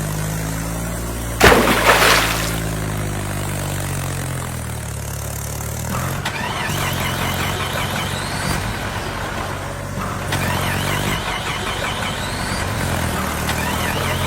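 Tractor engine running steadily, with a loud noisy crash-like burst about a second and a half in. A short high chirping recurs every couple of seconds over the engine.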